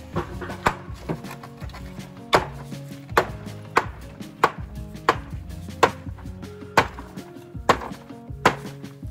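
Repeated sharp knocks of a hand tool striking hard material during masonry work, about eleven blows, most roughly three-quarters of a second apart, over background music.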